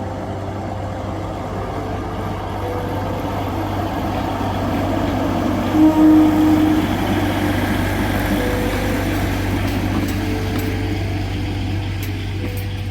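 A train running past with a steady low hum, growing slightly louder toward the middle and easing off near the end, with a short loud tone, like a brief whistle or horn, about six seconds in.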